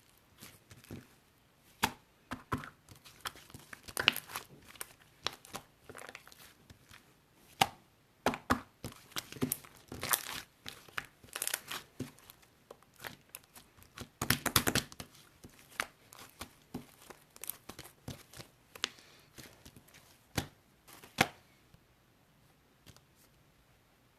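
Irregular crinkling, crackling and tearing sounds, like something being handled by hand, with many sharp clicks of uneven loudness. They stop about 21 seconds in.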